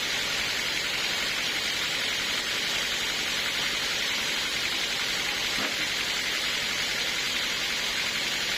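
Sawmill saw running steadily through a log, giving an even, hissing noise that does not change in loudness.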